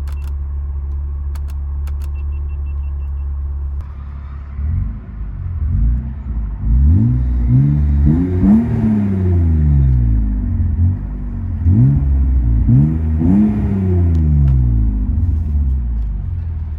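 BMW E36 M3's straight-six engine idling, then revved repeatedly in quick blips starting about four seconds in, in two clusters with a short return to idle between, before settling back to idle near the end.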